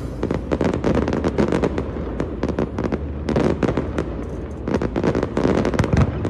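Aerial fireworks display: a continuous barrage of shells bursting and crackling, several sharp bangs a second.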